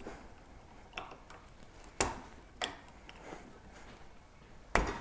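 Eastwood hand shrinker's steel jaws and parts clicking and knocking as they are fitted back into the tool: a handful of separate sharp clicks, loudest about two seconds in and near the end.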